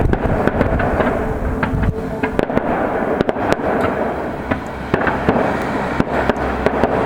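Fireworks display: a continuous barrage of bangs and crackles, many sharp reports close together over a dense rumble.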